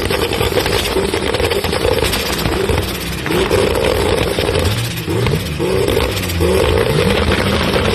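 Turbocharged high-performance car engine accelerating hard, its pitch climbing. The pitch drops briefly at about three and five seconds in, as at upshifts, then climbs again.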